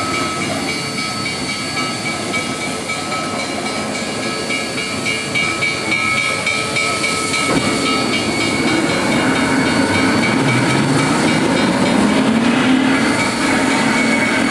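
Steam locomotive No. 734, a 2-8-0 Consolidation, standing with a steady hiss of steam and a few steady whining tones. About halfway through, a lower rumble joins and a pitched tone rises slightly.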